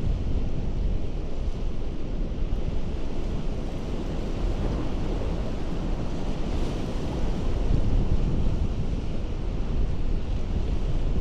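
Ocean surf washing over a rocky coast: a steady wash of sea noise with heavy low wind rumble on the microphone.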